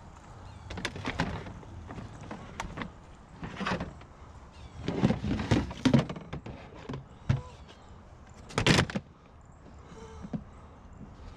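Irregular knocks and clatters of curbside junk being handled and moved, hard items bumping together, with the loudest bang about three quarters of the way through.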